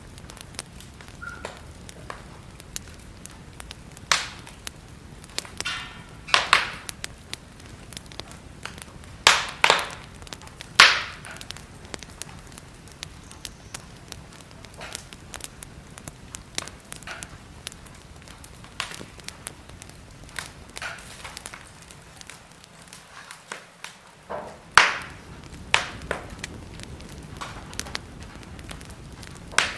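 Wood fire burning in a fireplace: a low steady hiss with frequent small crackles and several louder pops and snaps scattered through.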